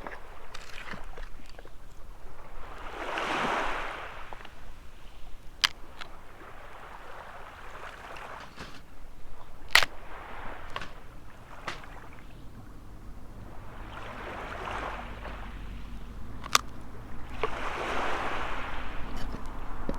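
Small waves washing up on the shore, a swell of surf every four or five seconds, with a few sharp clicks in between.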